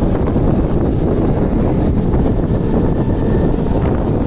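Mumbai Harbour line local electric train pulling away past the end of a platform, heard from the open doorway: a steady loud rumble of wheels and running gear with wind buffeting the microphone, and a faint high whine briefly in the middle.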